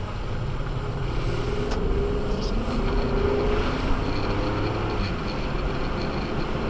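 An Acura MDX's V6 and road noise while driving on a snowy road: a steady low rumble, with an engine note that rises gently between about one and four seconds in.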